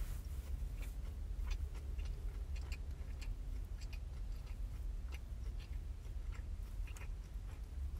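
Close-up chewing of a burger, with irregular soft mouth clicks, over a steady low rumble inside a car.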